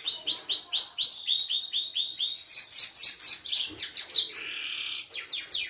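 Belgian canary singing: fast rolls of repeated whistled notes, about six a second, switching to a higher, quicker trill about halfway through and ending on a run of falling notes.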